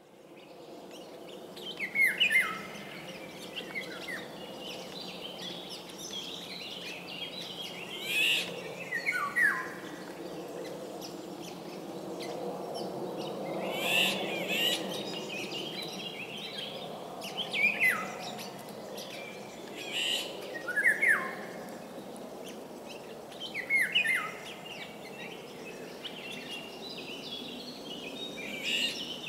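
A songbird sings short whistled phrases that fall in pitch, repeated every few seconds, over a steady low background noise.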